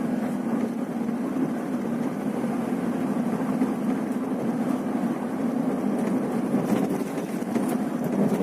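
Scania coach's diesel engine running steadily, with a constant low drone over road noise.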